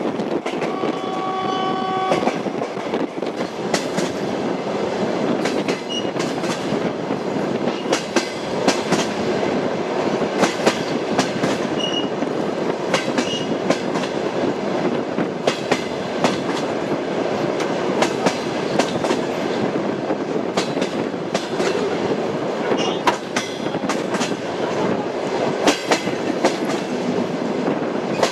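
Train running along the track, wheels rumbling steadily and clicking irregularly over the rail joints. A short, brief train horn sounds about a second in.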